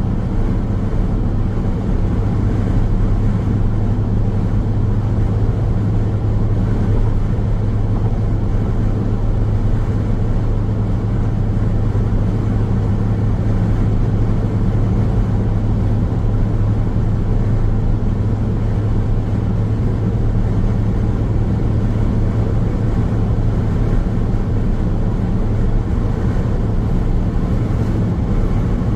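Car driving along a highway: a steady drone of tyre and road noise with a low hum, unchanging throughout.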